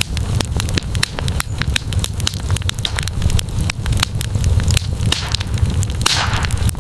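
Wood campfire crackling, with frequent sharp pops over a steady low rumble. A short hissing rush comes near the end.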